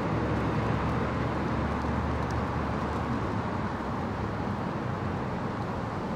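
Steady low rumble of vehicle engines and road noise, easing a little after the first couple of seconds.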